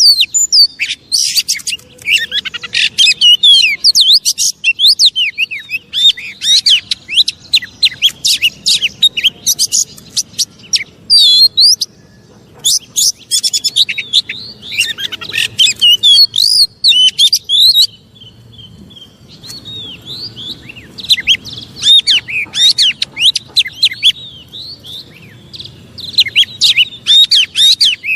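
Oriental magpie-robin (kacer) singing loudly in a rapid, varied run of whistles, chatters and trills, with a short break about twelve seconds in and a quieter, sparser stretch after about eighteen seconds.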